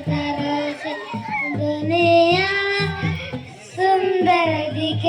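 Music: a song with a young voice singing held, gliding notes over a backing beat.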